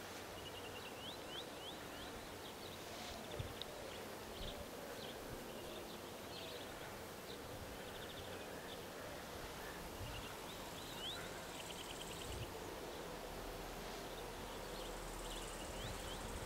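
Faint small birds chirping, with short upward-sweeping calls and buzzy trills scattered throughout, over a steady low background hum.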